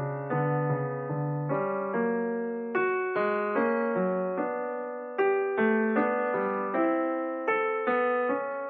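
Background piano music: a steady run of struck notes and chords, roughly two to three a second, each ringing and dying away.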